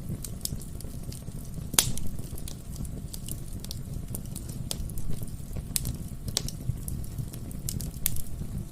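Wood fire burning in a fireplace: a steady low rumble of flames with irregular sharp crackles and pops from the burning logs, the loudest pop about two seconds in.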